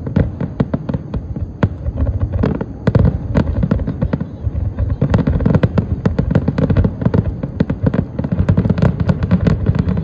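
Aerial fireworks going off in a dense, continuous barrage of rapid booms and crackling pops, several bangs a second with no gaps.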